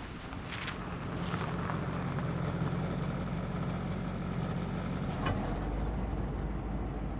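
A car engine running close by with a low steady hum, growing louder about a second in as it pulls up and then idling. A short knock comes about five seconds in.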